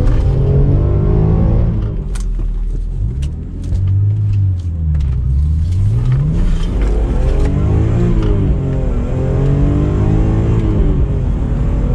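BMW E46 M3's 3.2-litre straight-six engine running on the road, the revs falling away about two seconds in, then climbing, dipping and climbing again as the car is driven on.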